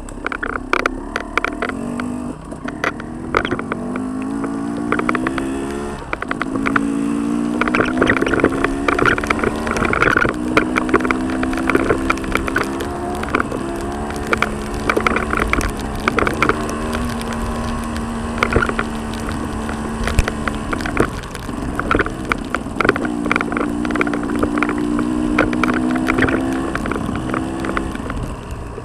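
Trail motorcycle engine running under load, its pitch climbing and then dropping several times as the revs rise and fall, with many sharp knocks and clicks over it.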